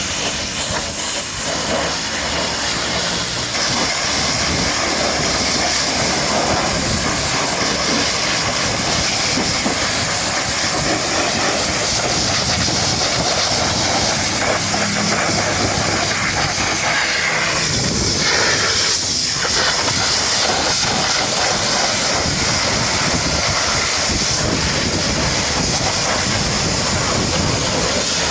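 High-pressure washer jet spraying water onto a truck, giving a steady, loud hiss.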